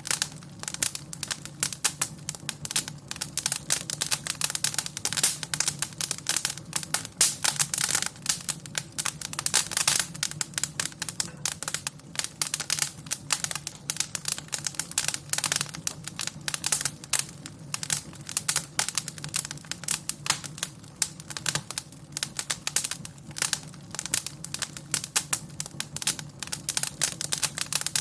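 Wood fire crackling in a fireplace: dense, irregular pops and snaps over a steady low background.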